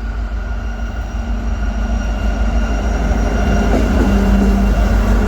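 Freight train running: a steady low rumble with a few constant tones, growing a little louder past the middle.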